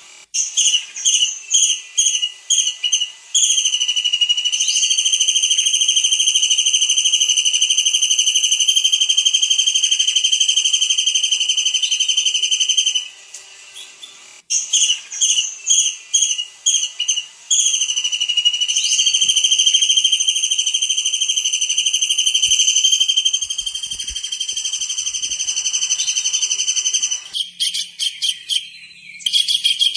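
Tengkek udang kingfisher singing in full voice. Each phrase is a run of short, sharp, quick notes that turns into a long, high, steady whistle held for about nine seconds. The phrase comes twice, and a fast stuttering trill follows near the end.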